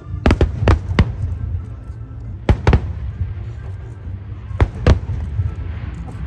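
Fireworks shells bursting overhead: seven sharp bangs in three quick clusters, three in the first second, two a couple of seconds later and two near the end, over a steady low rumble.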